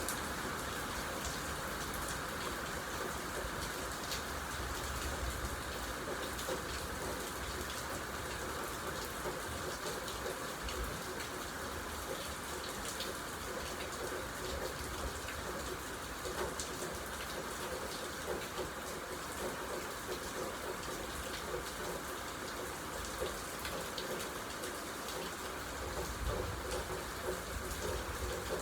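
Steady rain falling, with scattered individual drops pattering on surfaces.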